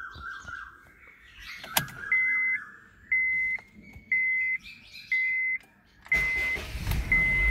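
Car warning chime beeping about once a second, then about six seconds in the Honda Civic's engine cranks and starts, with a steady running rumble near the end.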